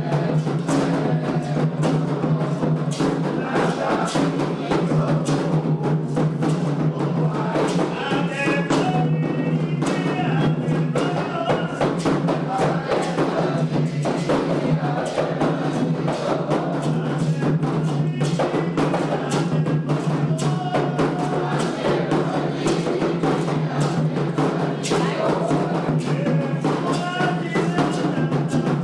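Candomblé ritual music: continuous atabaque hand-drum playing at a steady level, with voices singing at times over the drums.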